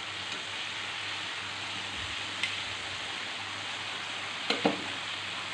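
A breaded chicken chop sizzling steadily as it shallow-fries in hot oil in a frying pan, still only half cooked. There is a faint click about two and a half seconds in and two sharper clicks near the end.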